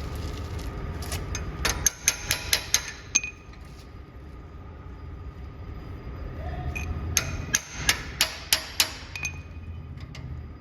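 Hammer striking metal in two quick runs of about six ringing blows each, one about two seconds in and another near the end.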